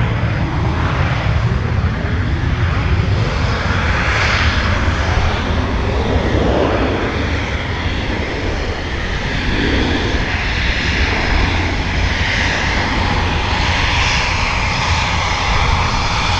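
Gloster Meteor T7's twin Rolls-Royce Derwent turbojets running in a loud, continuous jet rumble, with a rushing noise that swells and eases several times as the aircraft departs.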